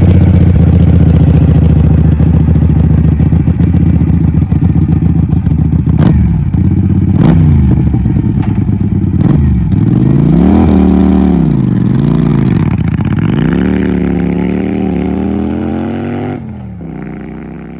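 Cruiser motorcycle with a custom aftermarket exhaust, running at a steady idle, then blipped several times with a few sharp pops, revved up and down, and held in a long rise before the throttle is shut off suddenly near the end and the engine note fades away.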